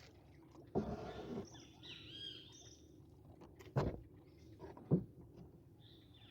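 Birds chirping in short arched calls, about two seconds in and again near the end, against quiet rural background. Two sharp knocks come around four and five seconds in, and a brief rustle about a second in.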